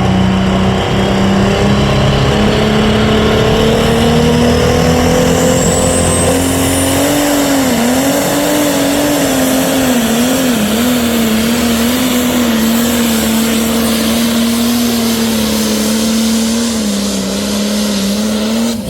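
Pro stock pulling tractor's turbocharged diesel engine at full power hauling the sled. Its pitch climbs over the first several seconds, wobbles up and down for a few seconds midway, then holds steady before easing off near the end.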